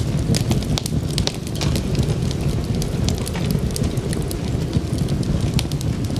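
Wood fire crackling, with many sharp, irregular pops and snaps over a steady low rumble of flames.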